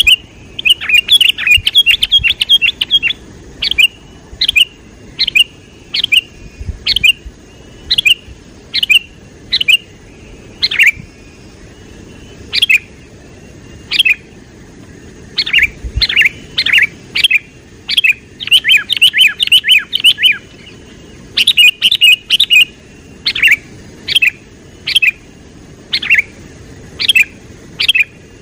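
A bird chirping over and over with short, sharp calls. They come in quick runs of several at a time, and in between singly about once a second.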